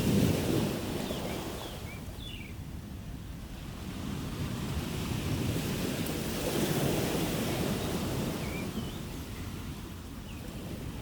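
Sea waves washing onto a shore: one swell peaks right at the start and fades, and another builds about halfway through and then recedes. A few faint, short high chirps sound over the surf.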